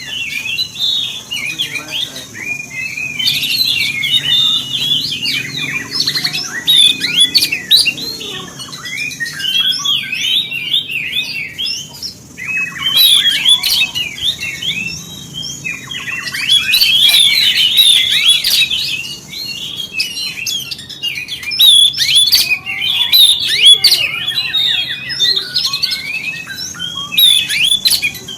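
Oriental magpie-robin (kacer) singing a fast, varied stream of chirps and whistles, in runs of a few seconds with short pauses between them.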